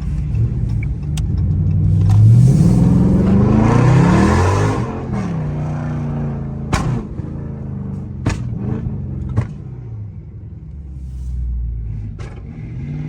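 Dodge Charger Scat Pack's 392 Hemi V8 pulling away hard, its pitch climbing over a couple of seconds before dropping off, then running steadier. A few sharp cracks come about seven, eight and nine seconds in.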